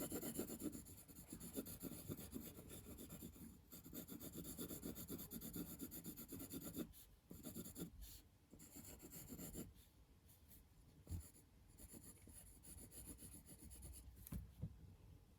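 Faint scratching of quick drawing and colouring strokes on paper, steady and rapid at first, then thinning out to occasional strokes after about ten seconds.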